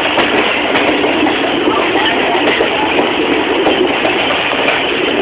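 Passenger train running at speed, heard from an open coach door: a steady, loud rolling noise of wheels on the rails.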